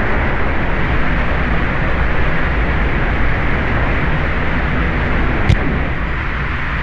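Loud, steady rushing noise with no pitch to it, with one sharp click about five and a half seconds in.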